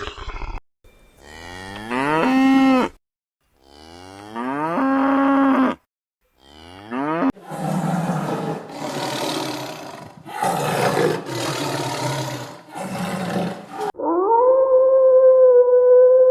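Cow mooing three times, each moo rising in pitch and then holding, the last one short. Then comes a run of about five rough, noisy calls from another animal. About 14 s in, a loud, steady high-pitched tone begins, the loudest sound in the stretch.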